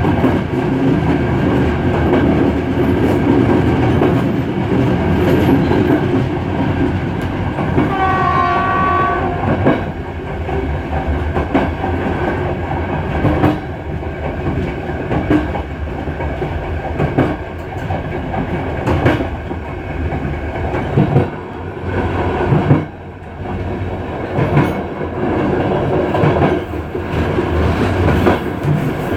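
Passenger train running along the track on a mountain climb, its wheels clicking regularly over the rail joints. One horn blast, about a second and a half long, sounds about eight seconds in.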